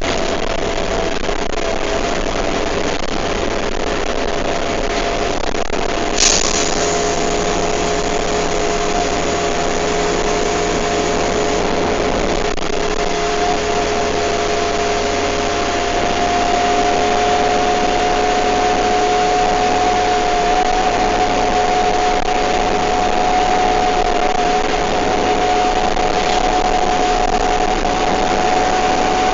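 Bus engine and drivetrain running on the road, with a steady whine made of two tones, the higher one slowly rising in pitch. A short hiss comes about six seconds in.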